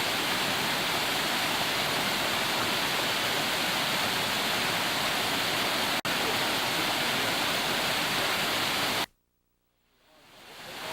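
Steady rush of falling water from a cascading waterfall. The sound cuts out for an instant about six seconds in, then drops out entirely near the end before fading back in.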